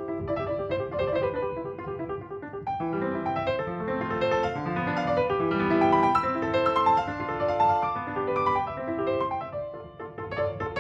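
Background piano music: repeated chords in a steady rhythm, swelling in the middle and thinning out near the end.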